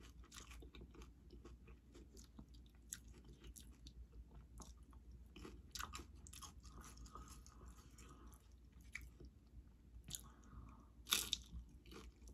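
Close-up chewing of crunchy tortilla chips from nachos: faint, repeated crunching, with a few louder crunches, the loudest near the end.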